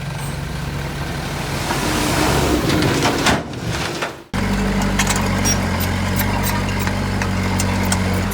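Diesel engine of heavy earthmoving machinery running steadily. It swells louder about two to three seconds in, fades briefly, and cuts back in abruptly about four seconds in.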